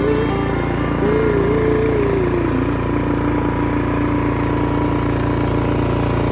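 A small engine running steadily at an even speed. Over it, a wavering melodic tone fades out about two and a half seconds in.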